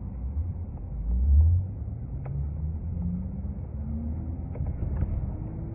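City transit bus running and accelerating: a low engine rumble with a louder surge about a second and a half in, then a whine that climbs steadily in pitch as the bus gathers speed.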